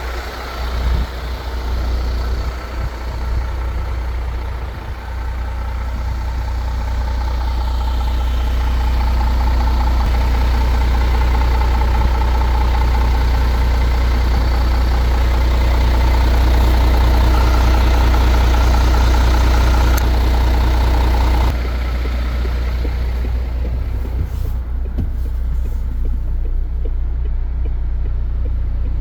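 MAN TGX 18.510's 12.4-litre straight-six diesel engine running with a steady low drone. It grows louder over the first several seconds, holds, then drops a step about three-quarters of the way through.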